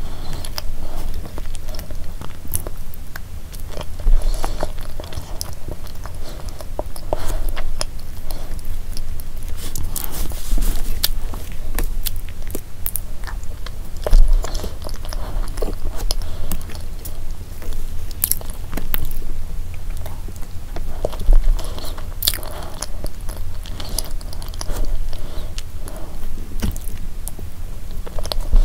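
Close-miked chewing and mouth sounds of a person eating a soft layered pudding dessert with a plastic spoon, with many short sharp clicks and smacks along the way.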